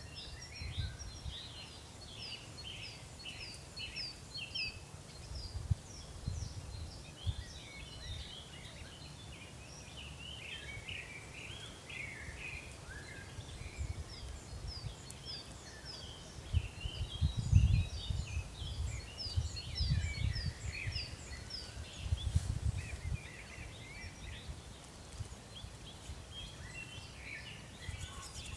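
Many small birds chirping and twittering together in quick repeated notes. Underneath, a low rumble comes and goes in gusts, loudest about two-thirds of the way through.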